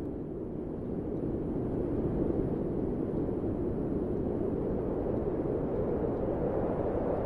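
Steady low rushing wind, a deep even whoosh that swells slightly about two seconds in.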